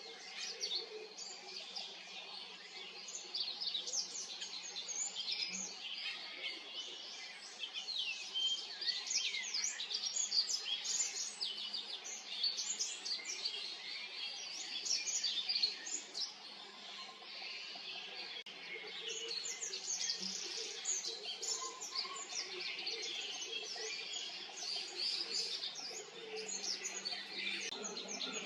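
Olive-backed pipit singing: a long, continuous run of rapid, thin high-pitched notes and short trills, easing off for a moment a little past halfway before going on.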